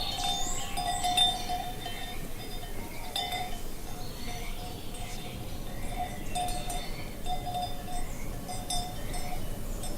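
Bells on grazing cattle clanking at irregular intervals, a ringing note struck every second or so over a faint steady background hiss.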